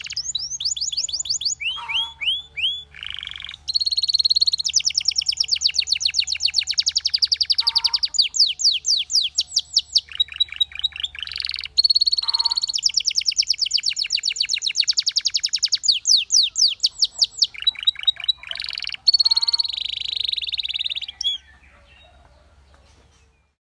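Canary singing a long song of fast trills of rapidly repeated high notes, broken by short rolls and sweeping notes. The song stops about two seconds before the end, leaving a faint low hum.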